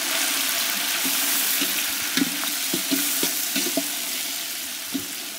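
Tomatoes with whole spices and mint sizzling in hot oil in a large metal pot, while a slotted metal spatula stirs them. The spatula scrapes and knocks against the pot, with a stroke about every half second in the middle.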